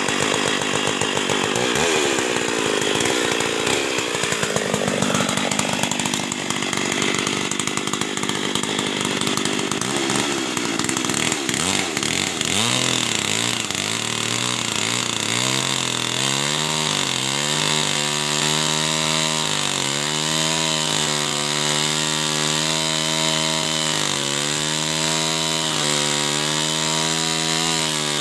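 Husqvarna 365 two-stroke chainsaw running and cutting wood; its pitch swings up and down through the first half, then holds high with brief dips every second or two. The engine sounds rough, which the owner puts down to a worn crankshaft bearing.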